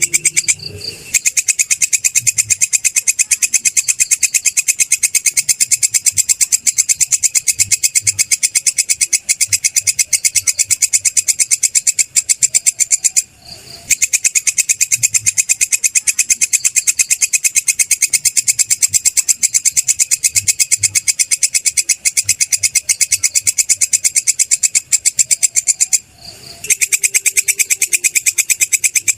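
Belalang kecek (kerik) katydid calling: a steady, rapid train of high-pitched scraping chirps, broken by brief pauses about a second in, about 13 seconds in and about 26 seconds in.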